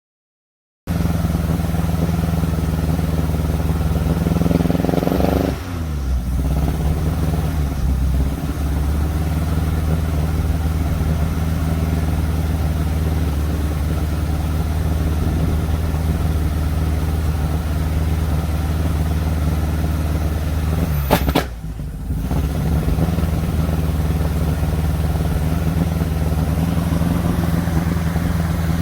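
1957 Ford Popular 103E's side-valve four-cylinder engine running, misfiring. A short dip and slide in pitch comes a few seconds in, and a sharp click with a brief drop comes about two-thirds of the way through.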